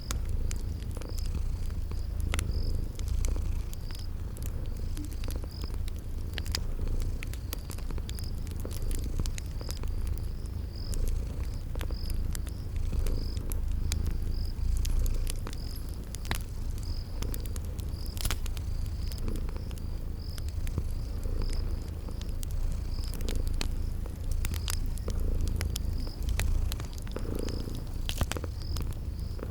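A cat purring steadily with a low, close rumble, mixed with the sharp pops and clicks of a crackling wood fire. A cricket chirps in an even, repeating rhythm, roughly one to two chirps a second.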